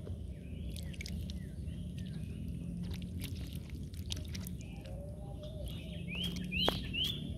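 A bird calling in short upward-sweeping chirps, about ten of them, the loudest three close together near the end, over a steady low rumble with a few sharp clicks.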